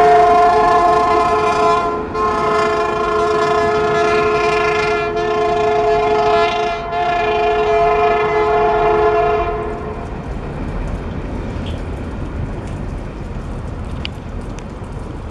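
Norfolk Southern freight locomotive's air horn sounding a multi-note chord in long blasts with brief breaks, its pitch dropping slightly at the start, stopping about nine and a half seconds in. The rumble of the freight cars rolling past on the rails carries on after it.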